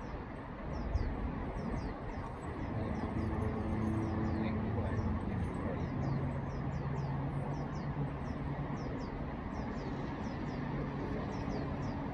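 Outdoor ambience with small birds chirping, short high calls repeating several times a second. A low steady hum joins about halfway through.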